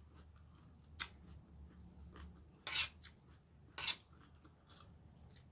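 Close-up eating of a crisp raw vegetable salad: three short, sharp crunching sounds, about a second in, near three seconds and near four seconds, over a faint low hum.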